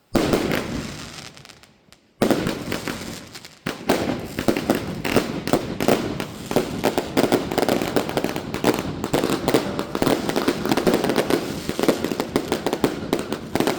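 Fireworks going off: a single bang at the start that dies away, then about two seconds in a long, dense run of rapid cracks and pops that keeps up without a break.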